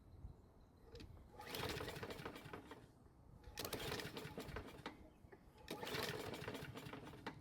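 Toro Personal Pace mower engine being pull-started three times. Each rope pull turns it over for a second or so without it firing: it won't catch even after priming, which the owner suspects is down to flooding past its auto-choke carburettor.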